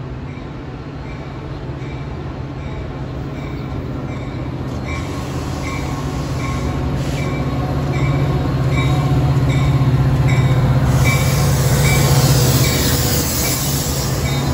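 Metra diesel locomotive approaching and passing at a station platform, its engine drone growing steadily louder, with a bell ringing about twice a second. A rushing hiss rises near the end as the locomotive and cars roll by.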